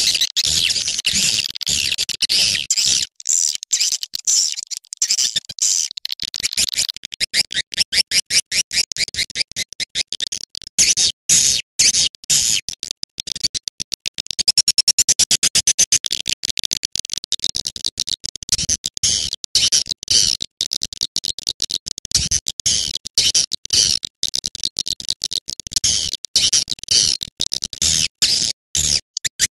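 Swiftlet lure call: a recording of swiftlets' calls played back, a dense, fast high-pitched chattering of chirps and clicks with brief pauses.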